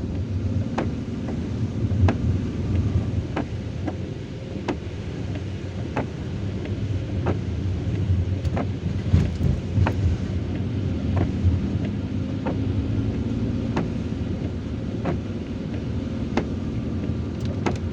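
A car's engine and tyres rumble steadily, heard from inside the cabin while driving in heavy rain. Sharp ticks come at irregular intervals, about one or two a second, from raindrops hitting the roof and windshield.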